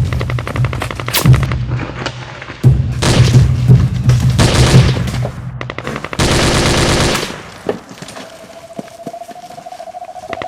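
Bursts of rapid automatic gunfire over a low, steady drone, stopping about eight seconds in. A faint, slowly rising tone follows.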